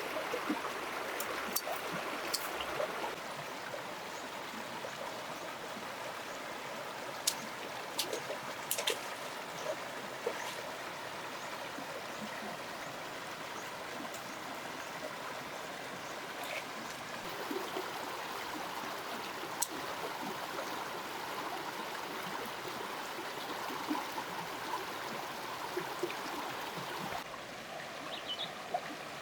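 Steady rush of running water with a few light clicks and knocks over it; the sound changes about 27 seconds in.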